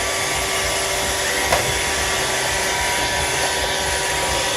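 Roomba robot vacuum running on a countertop: a steady whir of its suction motor and brushes with a held hum, and one short click about a second and a half in.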